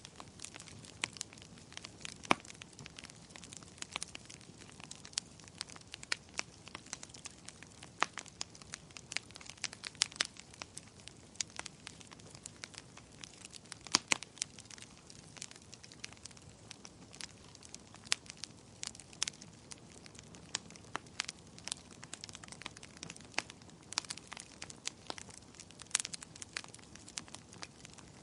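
Fire in a fireplace crackling: irregular sharp pops and snaps, several a second and some much louder than the rest, over a soft steady hiss.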